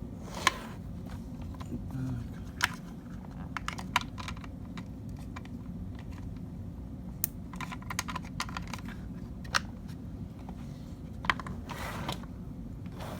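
Scattered sharp clicks and taps, some in quick clusters, over a low steady hum.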